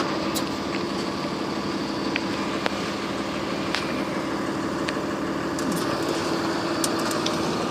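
Work truck's engine running steadily, with a constant hum that holds its pitch throughout and a few faint clicks.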